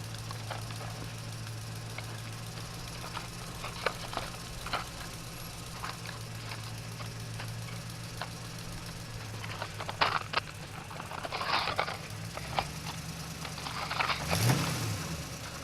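A steady low motor hum with scattered light clicks and crunches. About 14 seconds in there is a louder rushing sound, with a low pitch that dips and then rises.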